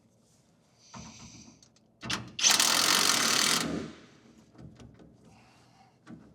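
A tool running the nut onto a shock absorber's mounting stud to compress the rubber bushings: a loud, rapid mechanical rattle lasting over a second near the middle, with a few light clicks around it.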